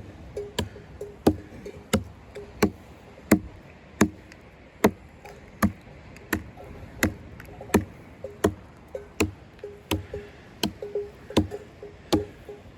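Axe blows chopping into a log, falling in a steady rhythm of about three strikes every two seconds, some with a short ringing note.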